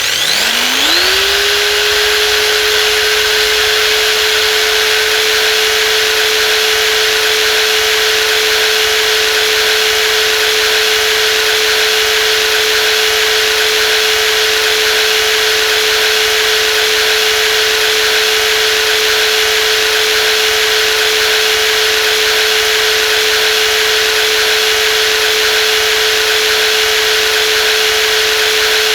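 Brushless jigsaw motor spinning up with a quick rising whine in the first second or so, then running at a steady speed. It holds one even whine over a broad hiss.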